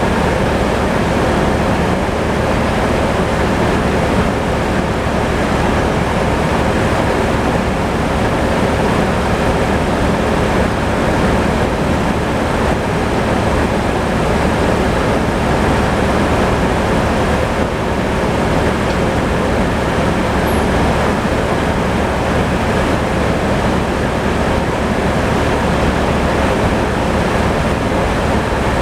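Tractor engine running steadily at the sawmill, a constant mechanical noise at an even level throughout.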